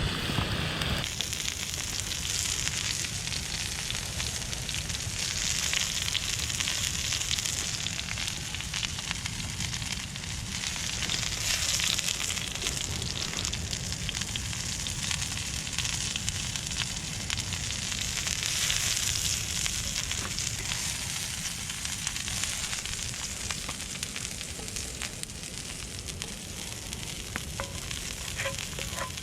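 Food frying in butter and olive oil in a cast-iron pan over a campfire: a steady, dense sizzle full of fine crackles, with a low steady rumble underneath.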